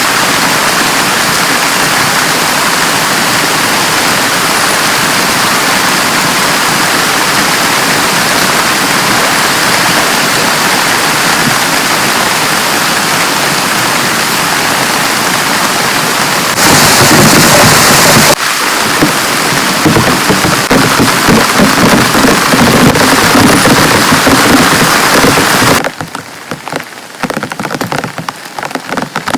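Heavy rain pouring steadily. About two-thirds of the way in it suddenly gets louder for a moment, followed by a low rumble of thunder under the rain. Near the end the rain falls off abruptly to a lighter patter of separate drops.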